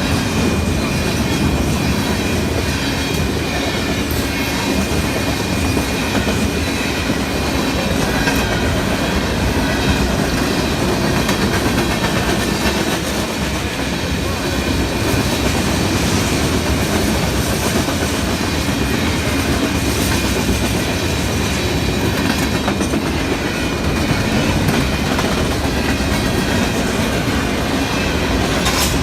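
A train's cars rolling steadily past on the rails, with a faint high-pitched wheel squeal.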